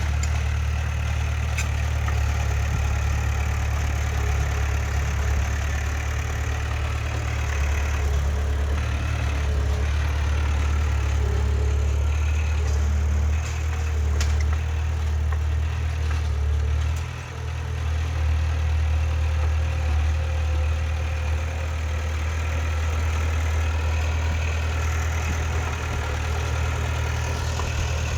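Heavy diesel engine of earthmoving machinery running steadily with a deep low hum, dipping briefly about two-thirds of the way through.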